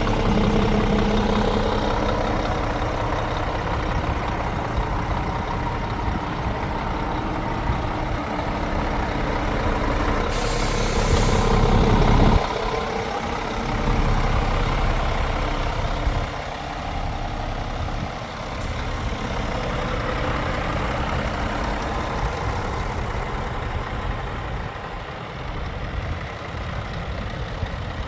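Scania G450 truck's diesel engine running steadily. About ten seconds in, a loud hiss of compressed air lasts about two seconds and cuts off suddenly, and the engine then runs on a little quieter.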